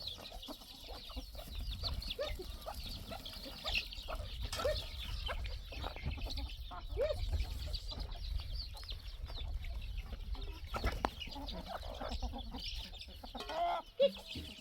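Chickens clucking, with many short, high peeps throughout, typical of a hen with her chicks.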